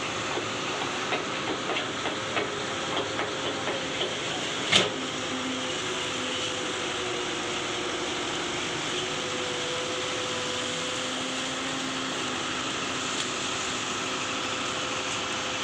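Excavator running steadily with a held whine, scattered knocks in the first few seconds and one sharp bang about five seconds in.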